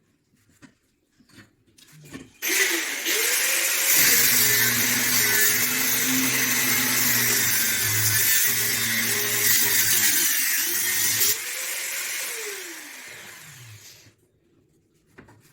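A small electric motor is switched on about two seconds in and runs with a loud whirring hiss, its pitch wavering under load. Near the end it is switched off and spins down with a falling pitch.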